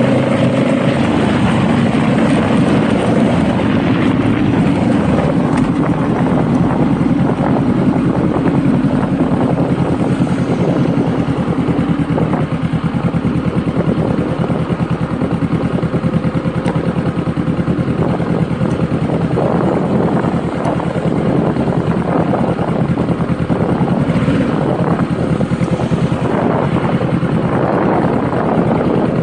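Honda Rebel motorcycle engine running while riding, a steady pulsing exhaust note under a haze of wind noise, its pitch easing off a few seconds in and again around twelve seconds.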